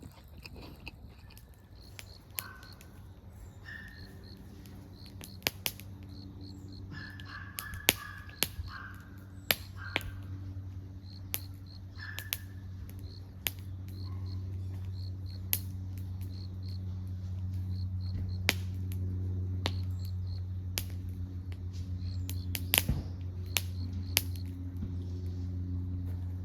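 Crows cawing a few times, mostly in the first half. Underneath runs a steady low hum that grows stronger partway through, with scattered sharp clicks throughout.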